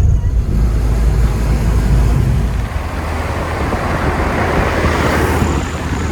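Moving car on a road: a steady low rumble of engine and road noise, with a hiss that swells about four to five seconds in and then eases.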